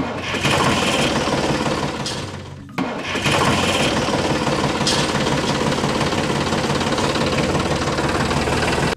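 A small motor running steadily. Around two and a half seconds in it slows and stops for a moment, then starts again abruptly and keeps running.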